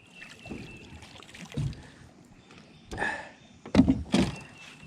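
Knocks and thumps in a small john boat as a freshly netted bass and the landing net are handled aboard. There are a few soft thumps, a short rush of noise about three seconds in, then two sharp knocks near the end.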